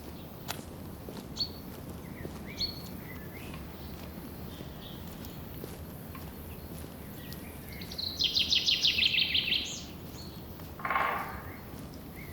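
Forest birds chirping over a steady low hiss. About eight seconds in, one bird sings a loud, rapid trill of about a dozen evenly spaced notes, followed about a second later by a single lower, shorter call. A few sharp clicks sound in the first three seconds.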